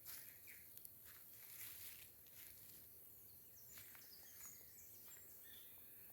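Faint forest ambience: scattered light rustles and a few brief, high bird chirps.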